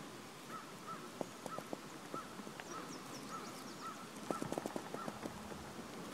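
A bird calling a steady series of short, nasal notes, about one every half second to second, which stops about five seconds in. Scattered soft knocks are mixed in, with a louder cluster of them a little past four seconds.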